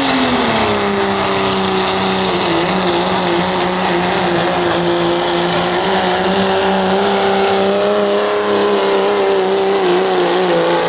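Turbocharged pickup truck engine running at full load through a pull, its note holding nearly steady after a brief dip at the start. A high, steady turbo whistle sits over the engine.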